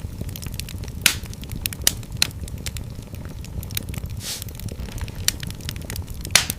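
Wood fire burning in a fireplace: a steady low rumble with sharp, irregular crackles and pops, the loudest about a second in, twice around two seconds, and near the end, plus a brief hiss a little past halfway.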